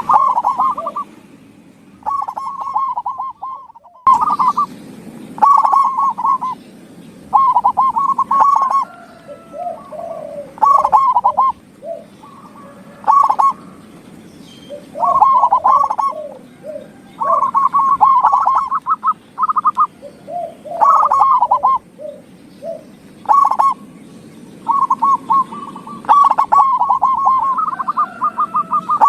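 Zebra dove (perkutut) singing: short rolling, rapidly pulsed cooing phrases about a second long, repeated every second or two, with some lower gliding notes under them.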